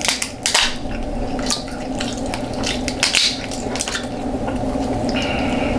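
Close-miked wet chewing and lip-smacking of a person eating saucy curry seafood: irregular short smacks and squelches, over a steady low hum.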